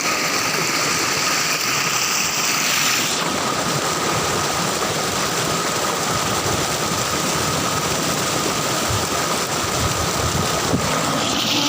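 Rushing water, a steady even rush without a break, with a thin steady high tone running underneath.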